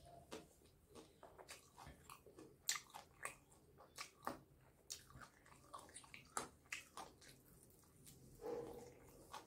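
Chewing fried chicken, close to the microphone: soft irregular crunches and wet mouth clicks, several a second, with a louder bite into a fried chicken leg piece near the end.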